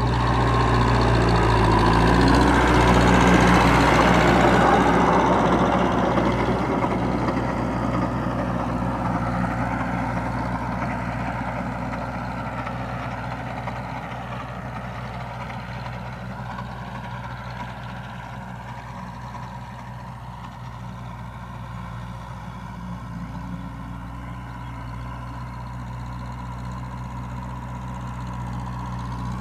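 Tractor engine running steadily. It is loudest about three seconds in, then grows gradually fainter and swells a little again near the end.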